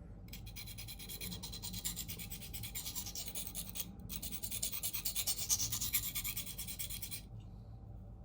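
Steel knife blade scraped rapidly back and forth across a coarse 325-grit diamond sharpening plate, grinding away the factory edge bevel to reprofile it. The scraping breaks off briefly about four seconds in, then stops about a second before the end.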